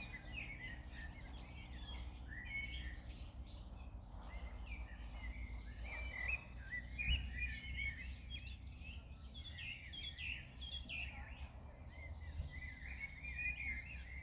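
Several songbirds chirping and singing in overlapping quick phrases, over a steady low rumble, with a brief low thump about halfway through.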